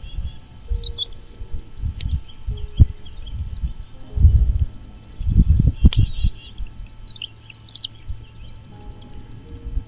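A bird chirping over and over, short rising high-pitched notes about once a second, with a few rapid overlapping notes near the middle. Irregular low thumps sound underneath and are the loudest part at times.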